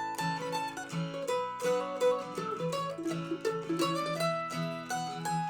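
Mandolin picking a quick melody over a steady acoustic guitar accompaniment, an instrumental break with no singing.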